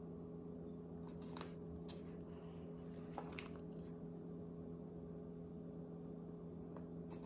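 A picture book's pages being handled and turned: a few faint paper rustles and soft clicks, over a steady low hum.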